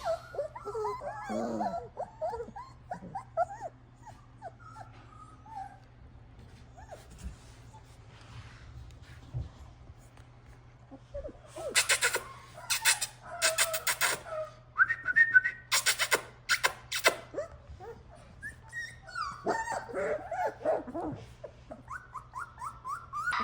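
Four-week-old golden retriever puppies whimpering and whining in short high-pitched cries, with bursts of sharp yelps in the middle.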